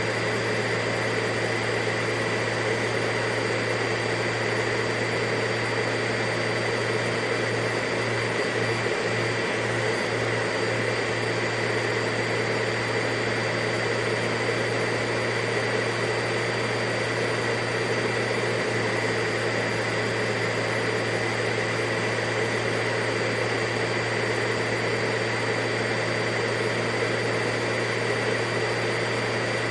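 Vacuum cleaner running steadily, a constant motor whine with the rush of air, holding one pitch and level throughout.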